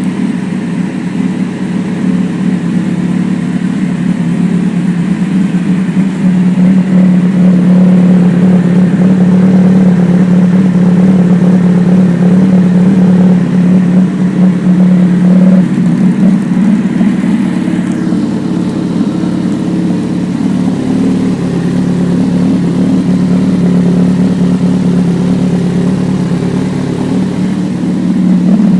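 2008 Kawasaki ZX-10R's inline-four engine running through a RaceFit Growler exhaust, loud and held at a mostly steady speed.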